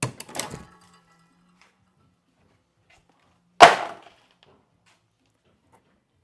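Knocks and clatter from handling tools and parts under a lifted car: a short rattle with a brief metallic ring at the start, then one loud knock about three and a half seconds in.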